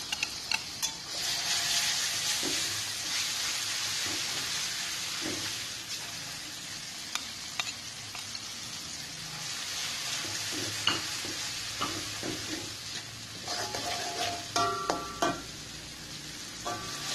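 Ground red chili paste sizzling in hot oil in a metal wok with frying shallots. The sizzle swells about a second in as the paste goes in. A long metal spatula stirs and scrapes, clinking against the wok and plate.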